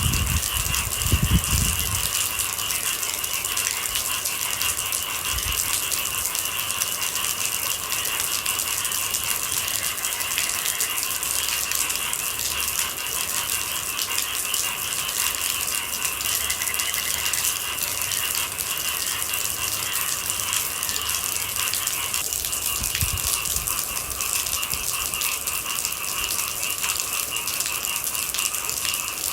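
Steady rain pattering densely on a surface, with a few deeper thuds near the start and again past the middle.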